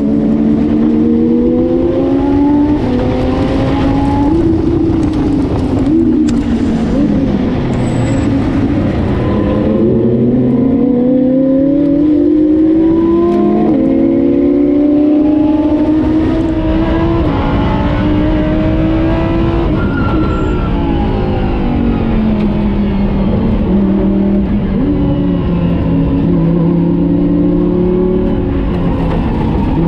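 Race car engine running hard on track, its pitch climbing under acceleration and dropping at each gear change and under braking, over and over.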